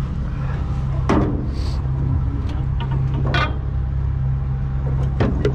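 Boat engine running steadily at idle, with a few brief sharp knocks over it.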